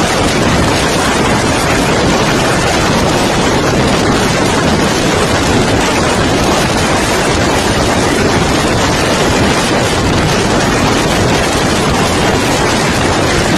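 Bobber motorcycle running steadily at speed, its engine under a loud, even rush of wind on the microphone.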